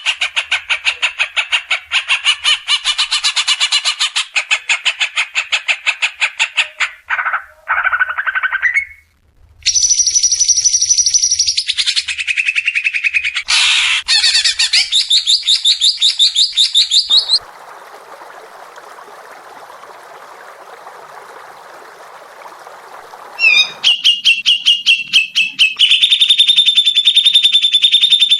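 Recorded songbird songs spliced one after another: very fast rattling trills and high piercing notes that switch abruptly from one bird to the next. A brief pause comes about a third of the way in, and a rough, hissing passage about two-thirds through, before a new rapid high trill takes over.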